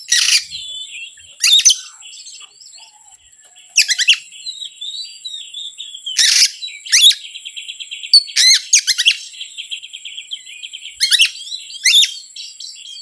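Oriental magpie-robin (kacer) calling: loud, sharp chirping phrases come every one to two seconds, with softer warbling between them. A steady thin high tone runs underneath.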